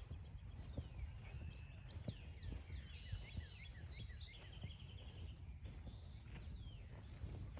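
Several small songbirds chirping and calling, with quick down-slurred notes and short rapid trills, busiest in the middle stretch, over a low steady rumble.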